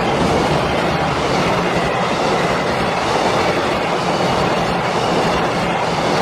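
Express freight train hauled by an EH500 electric locomotive passing at speed: a steady, loud rush of steel wheels rolling on the rails.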